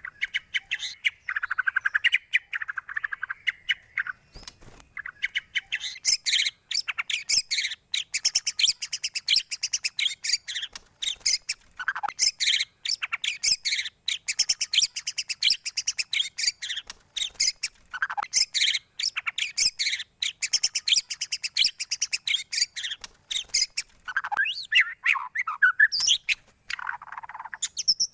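Songbird song from a bird-keeping lure ('pancingan') recording: a dense, continuous run of rapid high chirps and trills, broken now and then by downward-sliding whistles.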